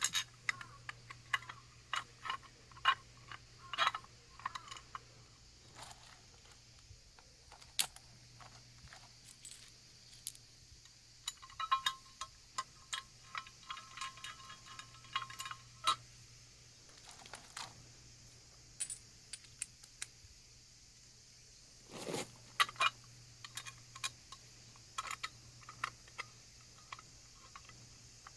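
Small metal parts and hand tools clinking and tapping in irregular sharp clicks, with a run of rapid, evenly spaced clicking in the middle, over a faint steady hum.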